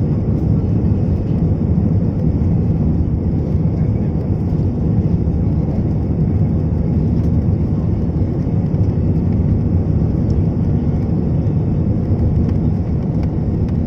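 Airliner cabin noise: a steady low roar of the engines and rushing air, heard from inside the passenger cabin in flight.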